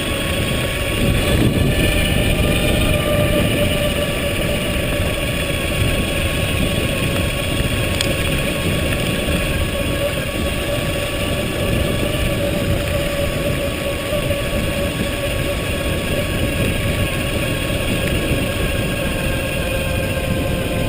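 Electric bike's motor whining at a steady pitch while cruising in third gear, with wind rumbling on the microphone.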